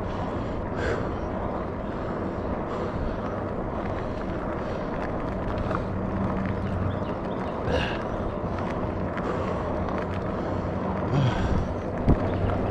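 Riding noise from a Rad Rover Step-Thru electric fat-tire bike: steady wind rush and tyre noise on the road, with a faint low hum. A brief knock near the end.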